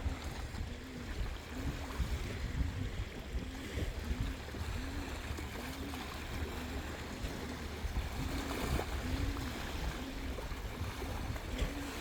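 Wind buffeting the microphone over water noise, with a faint low tone that rises and falls about once a second throughout.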